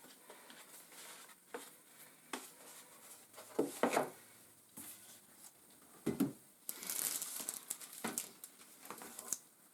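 Packaging being handled, heard muffled: crinkling and rustling with scattered small knocks as the feeder is unpacked from its box, and a louder run of crinkling about seven seconds in.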